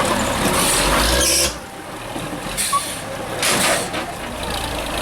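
Heavy off-road trial truck engine working hard, then easing off about one and a half seconds in. Short air hisses follow, twice.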